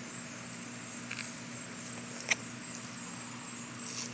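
Quiet outdoor ambience: a steady faint hiss with a thin, high, steady whine, broken by one sharp click a little past two seconds in.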